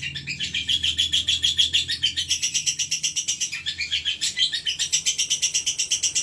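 Female lovebird singing a long, unbroken rapid chatter of shrill notes, about eight a second.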